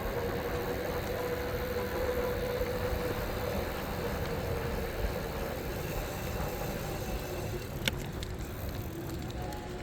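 E-bike riding along: steady road and tyre noise with a faint motor whine, and a single sharp click about eight seconds in.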